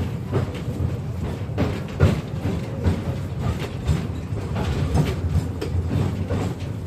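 KTM-5M3 tram running along the track, heard from inside the car: a steady low rumble broken by irregular clattering knocks and clicks from the wheels on the rails.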